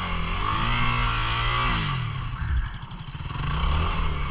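Single-cylinder 250 cc dual-sport motorcycle engine under throttle, its revs rising and falling as it is ridden through deep water, with a lower, rougher stretch in the middle before it picks up again near the end.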